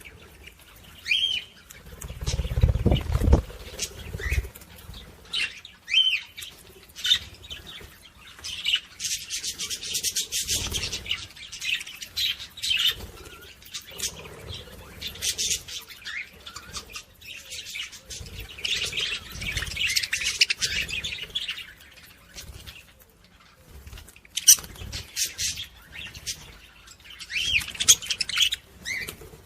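Small pet parrots, budgerigars and lovebirds, chirping and chattering in repeated high bursts, with wing flapping. A low rumble sounds about two to three seconds in.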